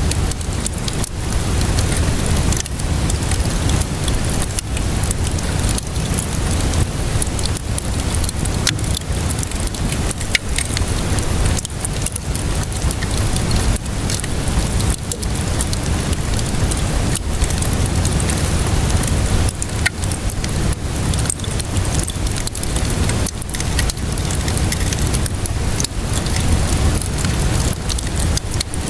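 Wood fire crackling and popping over a steady hiss of rainfall, with a constant low rumble underneath.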